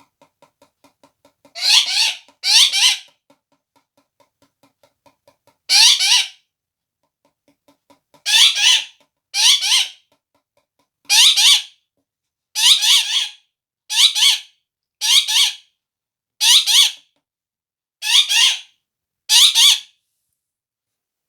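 Parrot screeching: about a dozen loud, harsh calls, each about half a second long, coming every one to two seconds with a longer gap near the start.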